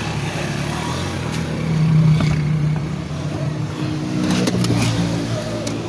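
A motor vehicle engine running with a steady low hum, swelling louder twice, with a few faint clicks near the end.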